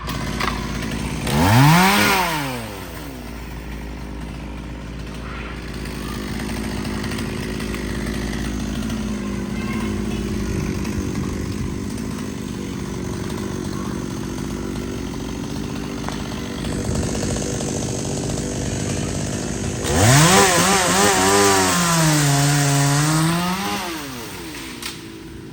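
Chainsaw running at idle, revved up and straight back down once near the start. About twenty seconds in it is revved again and held for a few seconds, its pitch sagging and recovering, then it drops back to idle.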